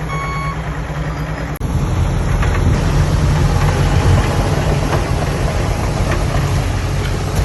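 Diesel earthmoving machinery at work: a dump truck's reversing beeper sounds over a steady engine for the first half-second. Then, after an abrupt cut about a second and a half in, a heavy diesel engine runs louder and rougher.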